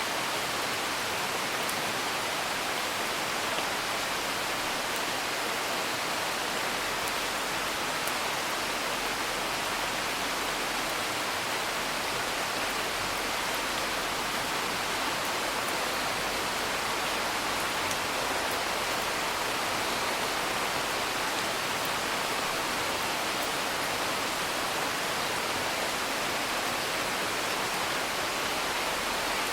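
Steady rain, a dense even hiss, with a few faint crackles from a wood fire now and then.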